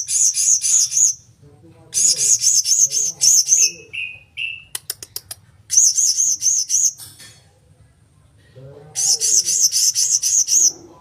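Blue-crowned hanging parrot (serindit) calling in four bursts of rapid, shrill, high-pitched repeated notes, each burst about a second long. A quick run of sharp clicks comes midway.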